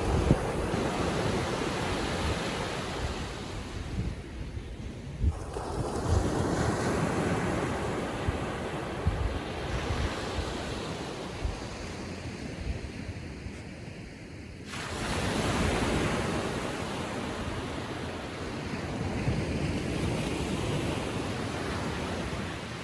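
Small ocean waves breaking and washing up the beach in slow surges a few seconds apart, with wind buffeting the microphone.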